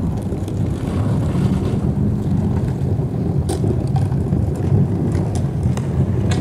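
Lamborghini Countach 5000's V12 engine idling through an AnsaSport aftermarket exhaust, a steady low rumble.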